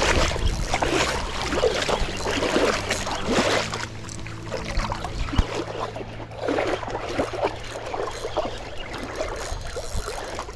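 Irregular splashing and sloshing of shallow water while a hooked snook is fought on rod and reel.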